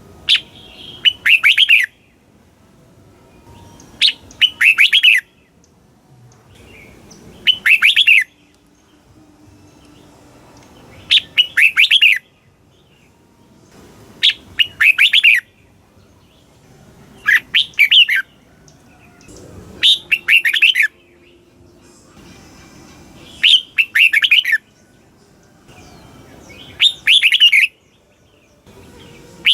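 Red-whiskered bulbul singing the same short song phrase over and over, about every three seconds. Each phrase is a brief high note followed by a quick run of falling, warbled notes.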